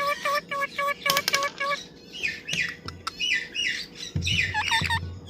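A parrot calling: a quick run of short, evenly repeated notes, then higher calls that slide downward in pitch, with a few low thumps near the end.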